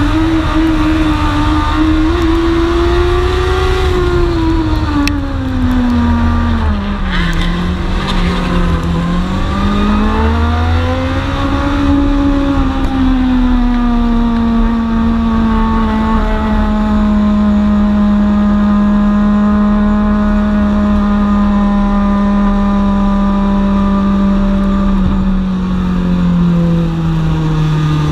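Onboard sound of a dwarf race car's engine at racing speed, the revs rising and falling with the laps. It eases off about seven seconds in, picks back up, holds nearly steady through the middle, then drops again near the end, over a heavy low rumble.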